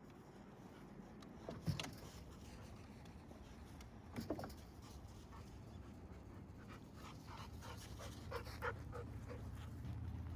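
A Golden Retriever panting quietly, with a short knock about two seconds in and another about four seconds in; the panting grows quicker and clearer about seven seconds in.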